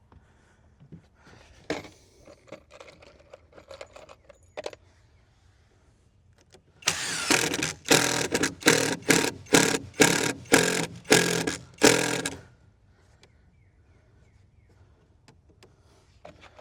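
A rapid run of about fifteen loud knocks, roughly three a second, lasting about five seconds, with a little ringing in each stroke; quieter scattered clicks of handling come before it.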